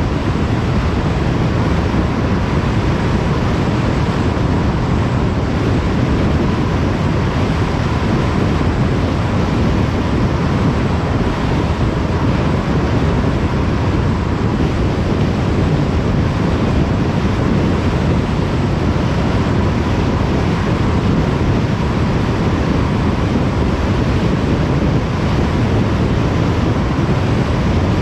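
Steady road noise of a car driving at motorway speed: tyre roar and wind rushing, constant throughout with a faint steady hum.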